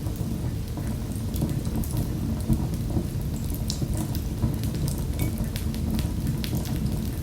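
Wood fire in a fireplace crackling: scattered sharp pops and snaps over a steady low rumble of the flames.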